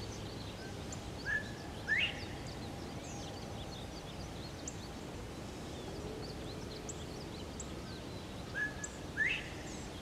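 A bird calling twice, about seven seconds apart: each call is a short level whistle followed by a sharply rising one. Faint high chirps and a steady outdoor background hiss run underneath.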